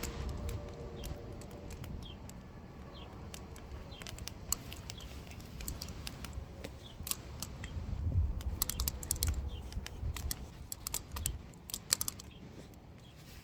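Wood fire crackling, with sharp irregular pops and snaps that come thickest in the second half.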